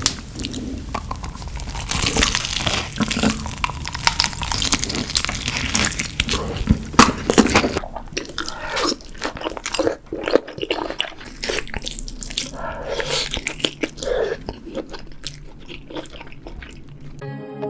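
Close-miked eating sounds: repeated crunchy bites and chewing, with wet mouth noises. Music starts near the end.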